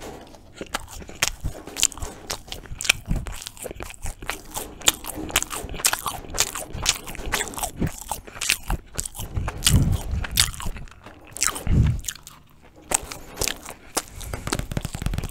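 Close-miked chewing and biting of Turkish Ramazan flatbread spread with ajvar: a dense run of sharp, crackly mouth clicks and moist chewing, with a couple of deeper thuds near the middle.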